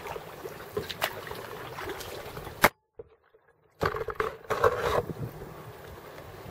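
Kayak paddle strokes and water splashing against the boat. A sharp knock comes about two and a half seconds in, then the sound cuts out for about a second before louder splashing resumes.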